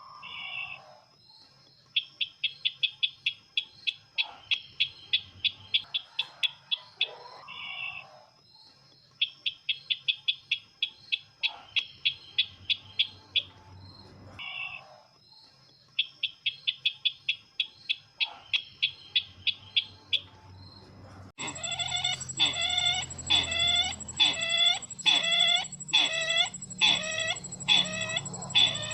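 Bird-call recording of the sisintar ladang bird, as used to lure the bird: bouts of rapid chattering notes, about eight a second, each bout lasting a few seconds with short pauses between. About 21 seconds in it switches abruptly to a louder call, a series of repeated downward-sliding notes about one a second over a steady high whine.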